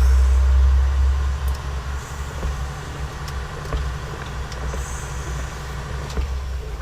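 Freightliner Cascadia's Detroit diesel engine rumbling steadily inside the truck cab, loudest over the first second or so and then settling a little lower, with a few faint clicks.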